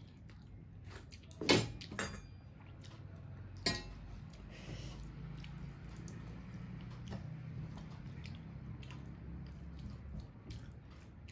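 A person eating rice and dal by hand: wet chewing and mouth sounds, with a couple of sharp clicks in the first four seconds and a low hum underneath.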